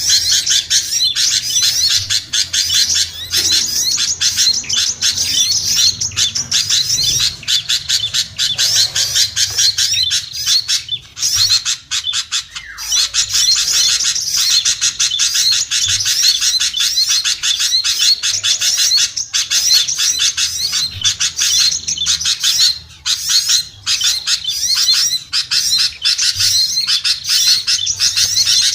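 Small songbirds chirping and chattering in a dense, rapid, continuous stream: a lure-call track for small birds, with a couple of brief lulls.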